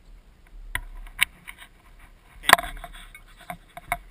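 Airsoft rifle, a PWS Diablo replica, firing single shots at an irregular pace, about five sharp cracks; the loudest comes about two and a half seconds in, with light rustling of movement between them.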